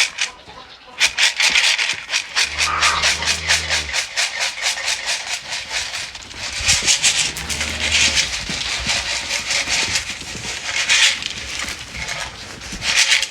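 A container of dry feed treats shaken in a steady rattle, about four or five shakes a second, to call the farm animals in. Two low animal calls sound through it.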